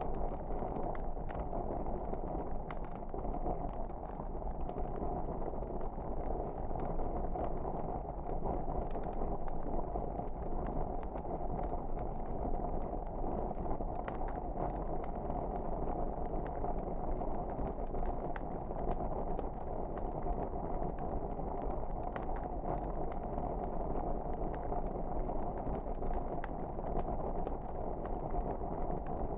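Wood fire crackling: a steady low hiss of the flames with frequent small, irregular pops and snaps.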